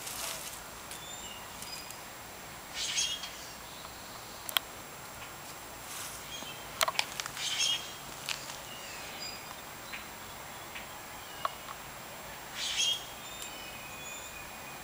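Outdoor ambience with birds chirping now and then. Three short bursts of high twittering stand out, about every five seconds, and a couple of sharp clicks come near the middle.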